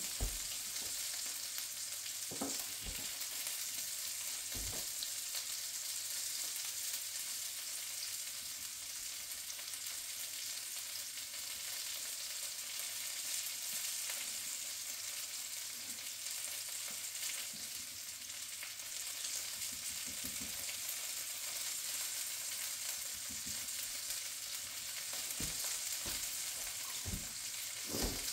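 Sausages sizzling in a frying pan, a steady high hiss with an occasional pop.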